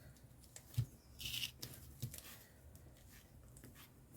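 Quiet paper-crafting handling sounds: a light tap just under a second in, then a short papery rasp of paper being peeled or pulled, with a few small ticks.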